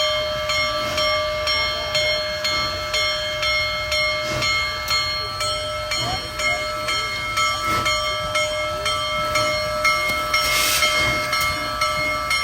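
Bell ringing steadily, struck about twice a second, with several ringing tones held between strokes over a steady hiss of steam. A brief louder burst of hiss comes near the end.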